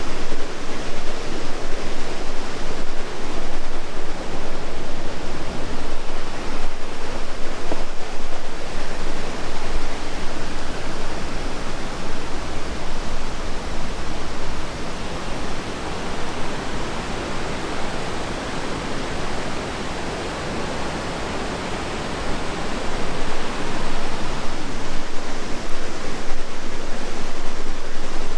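Rushing river water: a loud, steady rush of whitewater that eases off somewhat in the middle and builds again near the end.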